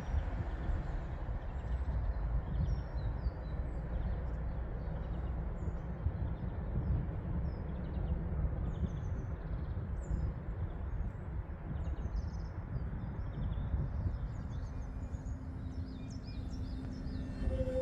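Small birds chirping again and again over a steady low outdoor rumble. A faint steady hum comes in near the end.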